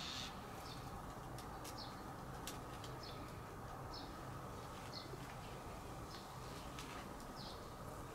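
A bird chirping repeatedly, a short high call about once a second, over steady outdoor background noise.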